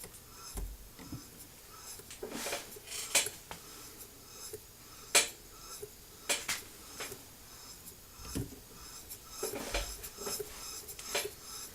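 Irregular clinks and knocks of a small metal model steam engine being handled and moved about on a bench.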